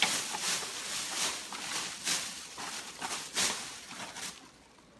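Rustling and scraping of items being handled and sorted, a series of scratchy bursts that die away after about four seconds.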